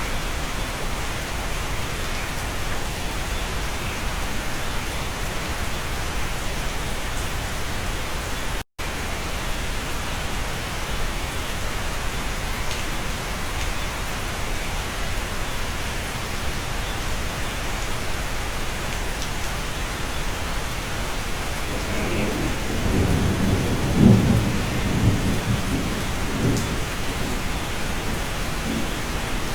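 Steady rain heard from inside a cabin, with a low roll of thunder that swells about 22 seconds in, peaks a couple of seconds later and fades out. The sound cuts out for a split second about nine seconds in.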